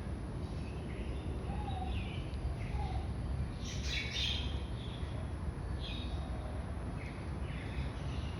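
Birds calling: scattered short chirps, with a brighter burst of calls about four seconds in, over a steady low rumble.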